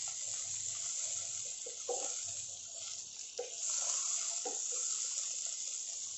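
Banana stem pieces sizzling steadily as they fry in oil in a nonstick kadai, their water already cooked off. A wooden spatula stirs and knocks against the pan a few times.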